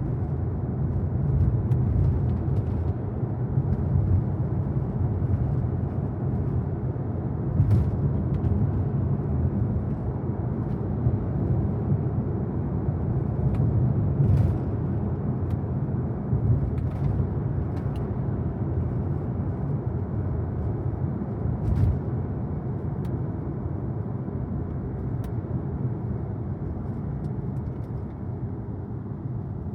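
Steady low road and tyre rumble of a 2023 Tesla Model Y Performance driving, with a few faint clicks and knocks now and then.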